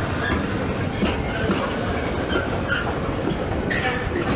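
Train running past on the tracks: a steady rumble with wheels clattering over rail joints and brief squeals from the wheels.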